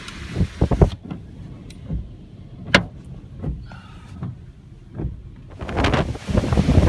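Storm wind buffeting the microphone cuts off abruptly about a second in, leaving a quieter stretch with scattered knocks and clicks, one of them sharp. Loud wind rumble on the microphone comes back near the end.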